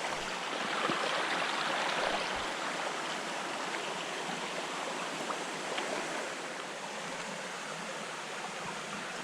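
Jungle creek water running steadily over rocks, a constant rush that is a little louder in the first two seconds, with a few faint knocks.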